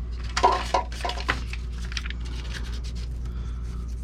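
Several sharp metallic clanks with short ringing, between about half a second and a second and a half in, as the in-duct air purifier and the sheet-metal duct are handled. Fainter clicks and scraping follow, over a steady low hum.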